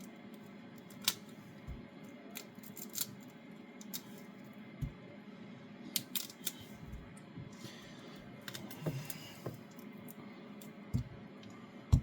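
Kitchen knife working through vegetables on a chopping board: scattered sharp clicks and taps with a few low thumps, the loudest thump near the end.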